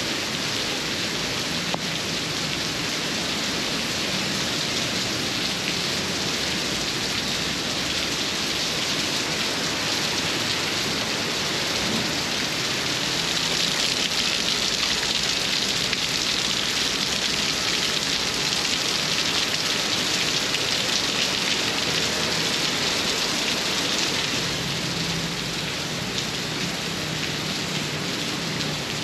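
Heavy tropical downpour: a steady hiss of heavy rain, getting a little louder about halfway through and easing again near the end.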